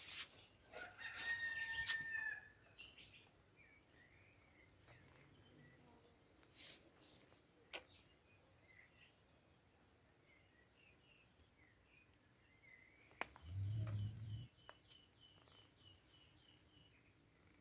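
A rooster crowing once, a loud held call about a second in, over faint songbird chirps and trills. About thirteen seconds in there is a low rumble lasting about a second.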